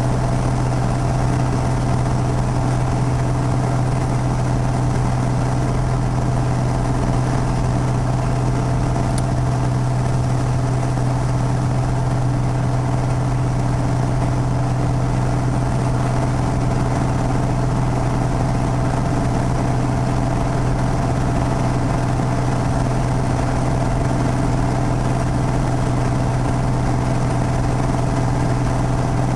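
Piper PA32's single piston engine and propeller running steadily, a constant low hum that holds at one pitch and level.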